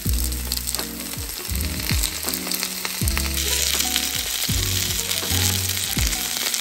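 Gyoza frying in an iron frying pan once the steaming lid is off, a steady sizzle that grows louder and hissier about halfway through. Background music with plucked notes and bass plays over it.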